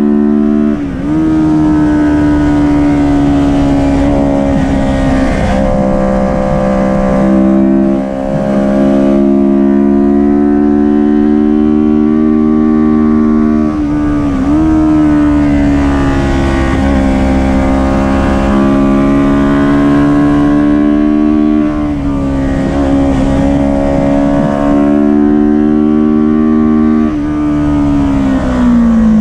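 Kawasaki Ninja 400 parallel-twin engine running hard at high revs under racing load, with brief dips in pitch about a second in, around eight seconds and around fourteen seconds as gears are changed, and revs falling near the end as the bike slows.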